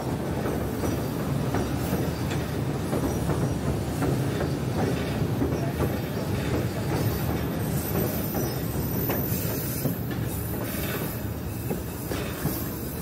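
Narrow-gauge passenger train rolling along the track, heard from aboard: a steady rumble of wheels on rail with light clatter.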